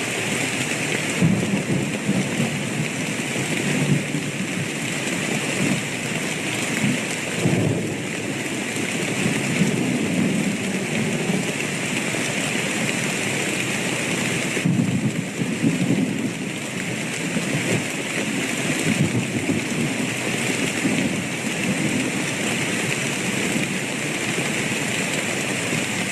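Steady heavy rain with low rolling thunder rumbling through it several times.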